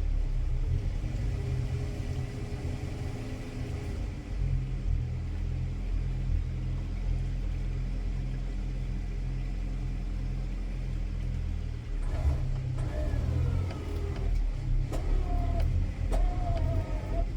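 Old Ford tractor engine running steadily. Over the last five seconds a wavering higher tone comes and goes above it.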